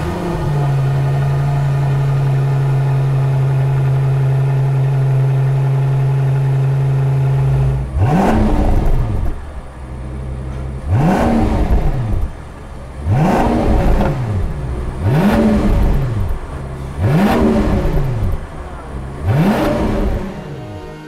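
Mansory-modified 2022 Rolls-Royce Phantom's 6.75-litre V12 idling steadily through its exhaust, then revved six times in short throttle blips about two seconds apart, each rising and falling back to idle.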